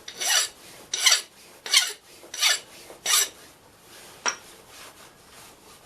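Hand file worked across a steel block in five quick, even strokes, cleaning up burrs so the block will sit square, followed by a single sharp metallic click.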